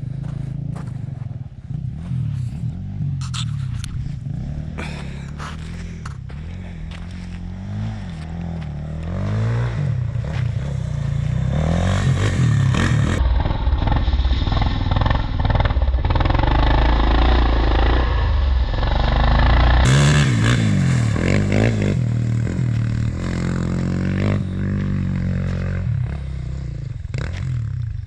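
Quad (ATV) engine running and revving on a rough trail, with clattering and knocks from the ride. The engine grows louder and revs harder from about nine seconds in, is loudest through the middle, then eases off.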